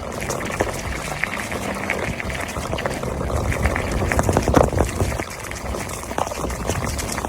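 Wind buffeting the microphone on a moving mountain bike, a steady rumble with many small rattling clicks from the bike and tyres over the trail.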